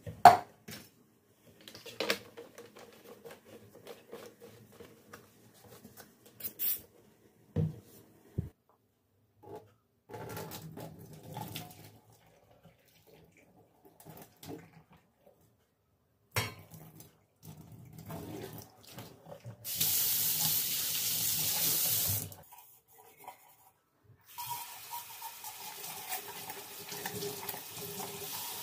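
Kitchen work sounds: scattered clicks and knocks of items being handled. About two-thirds of the way in, a kitchen tap runs hard for about two seconds, then turns on again shortly after and keeps running into the sink.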